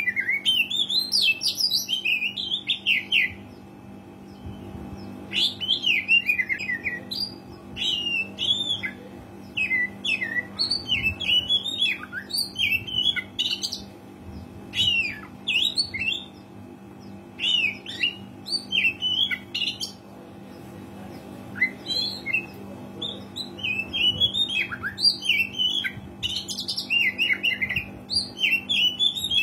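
Oriental magpie-robin singing a varied, energetic song of quick whistles and chirps in repeated phrases with short pauses, over a steady low hum.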